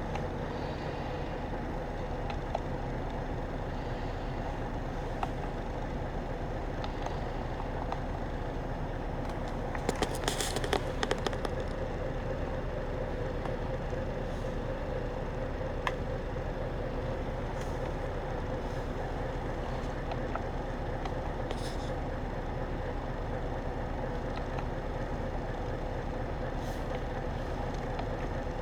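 Scania S730's V8 diesel running steadily at idle, with a short cluster of clicks and rattles about ten seconds in.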